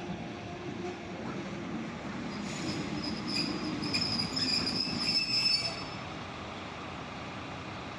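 Passenger train's steel wheels squealing against the rails for about three seconds over the low rumble of the moving carriage, then the squeal stops and a steady, quieter rumble remains.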